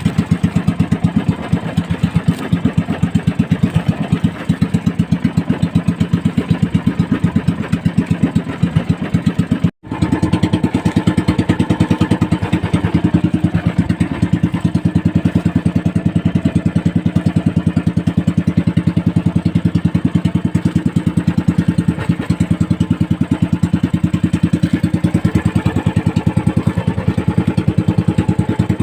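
Motorized outrigger fishing boat's (bangka's) engine running steadily with a rapid, even putter. The sound drops out for an instant about ten seconds in.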